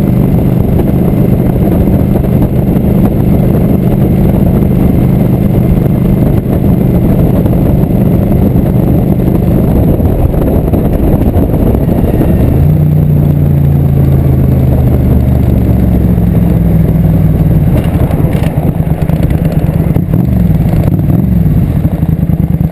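Motorcycle engine running while riding, with dense rushing noise underneath. About twelve seconds in, the engine note changes and then falls slowly over several seconds, and it shifts again near the end.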